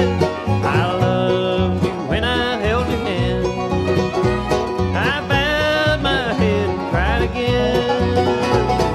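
Bluegrass band playing an instrumental passage: banjo rolls and acoustic guitar over a steady upright bass, with a lead line that keeps sliding up into its notes.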